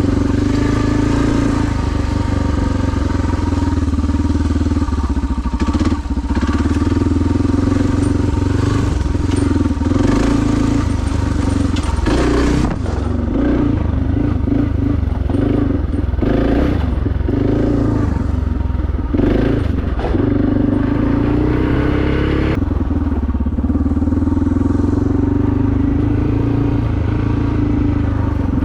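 2001 Suzuki DR650SE's single-cylinder engine with a SuperTrapp exhaust, running steadily while the bike is ridden. About twelve seconds in, for some ten seconds, the note turns uneven, rising and falling with the throttle and broken by short knocks, then evens out again.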